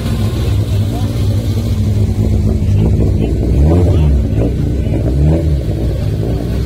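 BMW E30 rally car engine running low at walking pace, with two throttle blips that rise and fall in pitch, one about three and a half seconds in and another about five seconds in.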